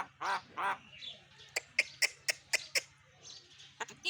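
Pet myna calling: a few nasal, arching calls, then a quick run of about six sharp, clipped chattering notes, and two short notes near the end.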